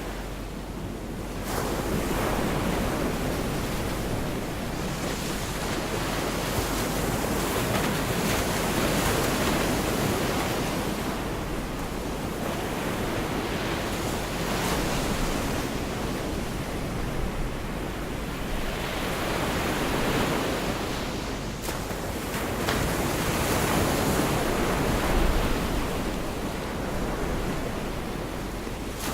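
Gulf of Mexico surf washing onto a beach, the rush of the waves swelling and easing every few seconds.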